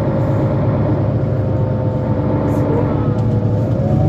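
Mercedes-Benz Citaro C2 Euro 5 diesel city bus running under way, a steady low engine hum with a drivetrain whine that dips slightly and then rises near the end.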